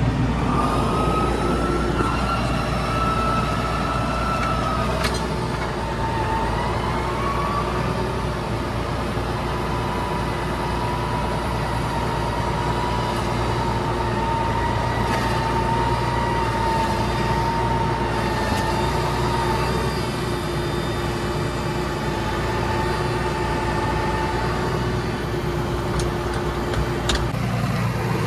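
Vehicle engine running steadily, with a high whine that drifts a little in pitch over it.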